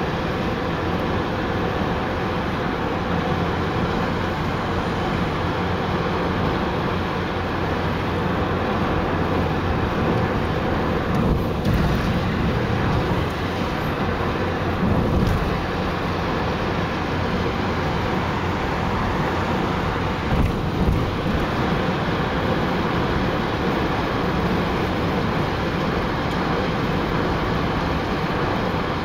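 Steady road and engine noise of a car driving, with a few brief swells near the middle.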